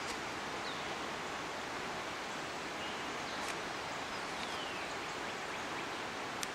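Steady rushing of a creek running over its bed, with a few faint high chirps above it.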